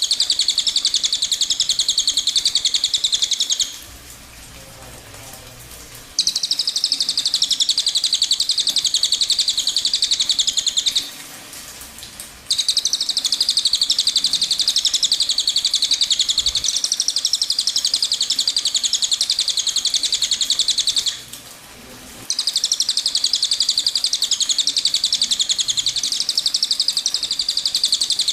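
Cililin songbird singing its 'tembakan' song: a dense, very rapid high-pitched trill held in long phrases, broken by three short pauses.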